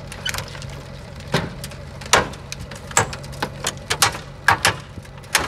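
Wrecked Ford's exposed engine running hard with a steady hum, broken by about ten sharp irregular bangs and cracks: an engine being deliberately run to destruction.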